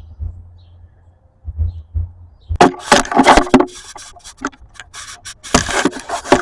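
Plastic oil drain pan being dragged out from under the car, scraping and knocking on the ground in two rough bouts about a second long each, the first starting about two and a half seconds in, with scattered scrapes between.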